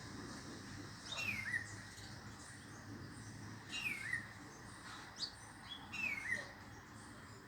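A bird calling three times, about every two and a half seconds, each call a short note sliding down in pitch, with a few fainter chirps between.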